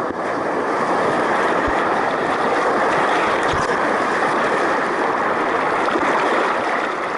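Rushing whitewater of a small river rapid, a loud, steady wash of water close by.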